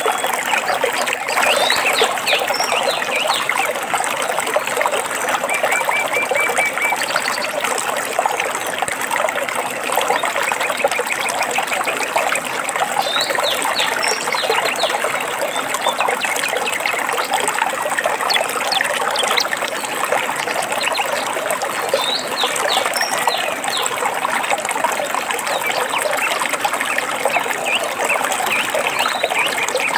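Small stream trickling and babbling steadily, with birds chirping over it now and then. A short, even trill comes about six seconds in.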